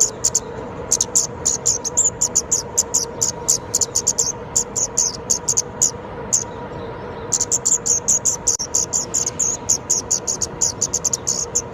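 Ốc mít songbird singing: a fast run of short, high chips, about five a second, with a break of about a second near the middle.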